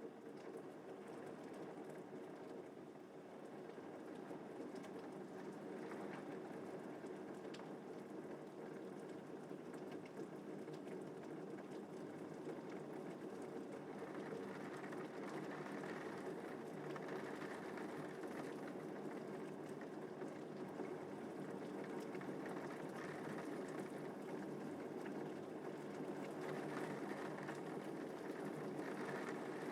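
Steady rain falling, an even wash of sound with scattered individual drop ticks and no thunder.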